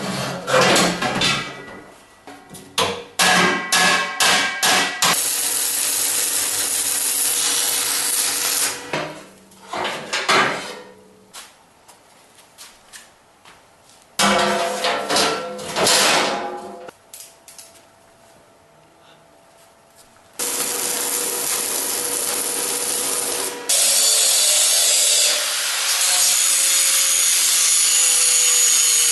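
Steel parts of a fireplace being worked on: sharp metal strikes and clanks that ring on after each hit. There are two long spells of a power tool running steadily, one at about 5 to 9 seconds and one from about 20 seconds to the end.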